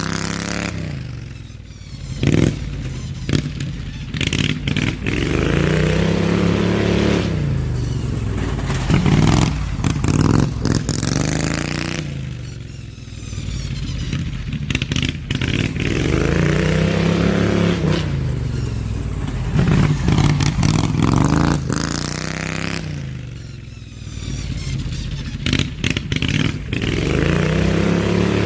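Slightly modified Briggs & Stratton V-twin engine of a hot-rodded Craftsman LT2000 riding mower, revving up and easing off over and over as it laps, its exhaust note rising and falling every few seconds. Scattered short clattering sounds mix with the engine.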